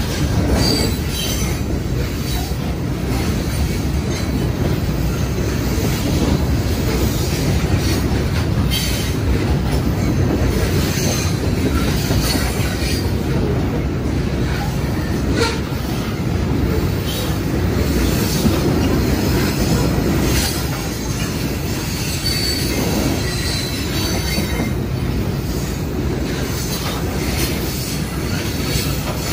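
Freight train's steel-wheeled coal cars rolling past at close range: a steady rumble of wheels on rail with scattered clicks and knocks, and short high wheel squeals now and then.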